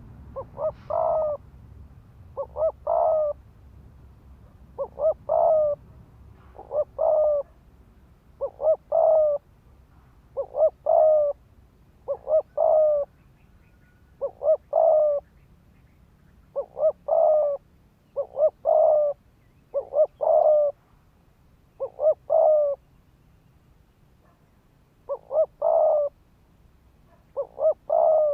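Spotted dove cooing: a phrase of two or three quick short notes ending in a longer coo, repeated about every two seconds, with one longer pause near the end. It is the rapid 'thúc gù' coo of a decoy male, used to provoke wild doves to come and fight.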